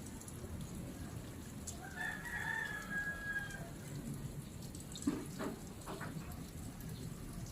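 A rooster crowing once, a drawn-out call of about a second and a half starting about two seconds in, with a couple of short knocks a few seconds later.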